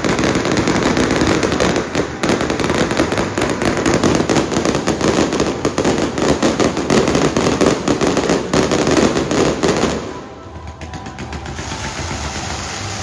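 Fireworks display: many shells and ground fountains going off at once in a dense, rapid crackle of pops and bangs. About ten seconds in it stops abruptly, leaving a much quieter sound.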